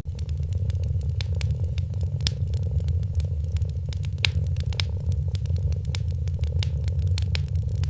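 Wood fire crackling: many sharp, irregular pops and snaps over a steady low rumble.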